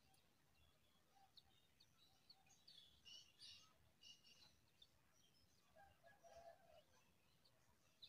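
Faint, high, short bird chirps scattered through, busiest in the middle, over a quiet background hiss.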